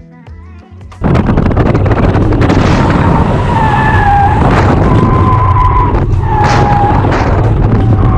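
About a second in, a car drifting comes in loudly: the BMW E46 330ci's straight-six runs hard under heavy tyre noise, with several drawn-out tyre squeals as the rear tyres slide.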